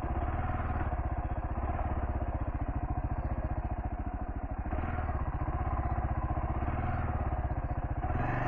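Kawasaki KLR650S single-cylinder four-stroke engine running steadily at low revs, its firing pulses evenly spaced, as the bike creeps along a muddy trail.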